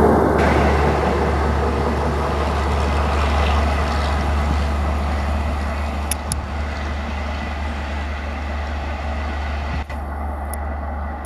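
A high-speed trial train, a WAP-7 electric locomotive with an inspection coach, just past at speed: its running noise on the rails fades steadily as it draws away, over a steady deep rumble.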